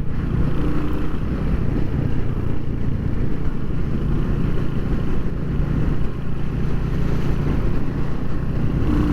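Royal Enfield Hunter 350's single-cylinder engine running steadily under way as the bike is ridden.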